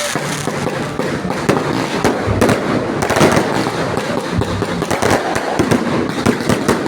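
Fireworks going off in quick succession: a dense run of sharp bangs and crackles, with a few heavier booms about two and a half and three seconds in.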